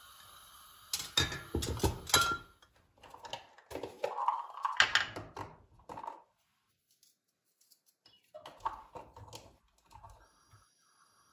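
Kitchen work sounds: runs of quick clicks and knocks, like utensils and cookware being handled, broken by a short gap of complete silence midway.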